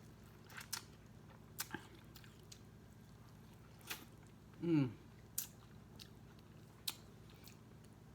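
Biting and chewing corn on the cob, with sharp wet mouth clicks every second or so. A short hum falling in pitch comes a little before five seconds in and is the loudest sound.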